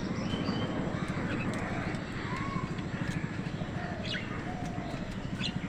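Crows calling in short, scattered caws over a steady background murmur of distant voices.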